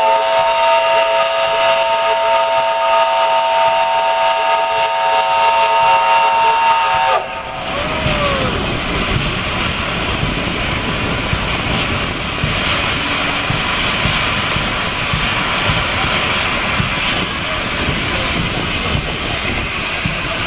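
Steam locomotive whistle sounding one long chord of several tones for about seven seconds, then cutting off with a short falling tail, followed by a steady hiss of escaping steam.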